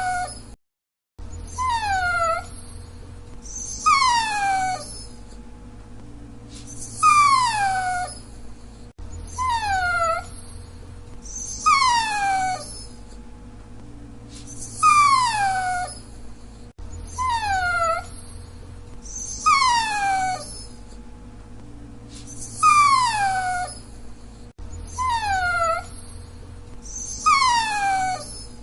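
Dachshund whining: a run of high, descending whines, each under a second long, repeated about every two to three seconds.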